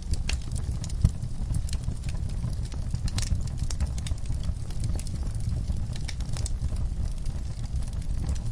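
Wood fire burning in a fireplace: a steady low rumble with scattered crackles and pops, one sharper pop about a second in.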